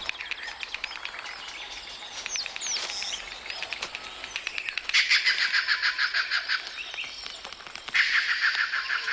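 Several small birds chirping and singing together, with loud, fast trilled phrases about five seconds in and again about eight seconds in, and a few quick falling whistles.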